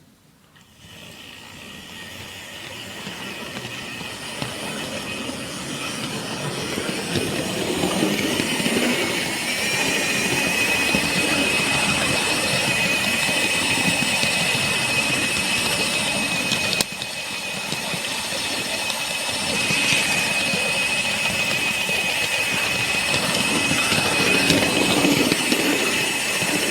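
Model railway train running along the track, with a steady electric motor whine over the rattle and rumble of wheels on rail. It builds up over the first ten seconds and then runs on evenly, with a brief dip about two thirds of the way through.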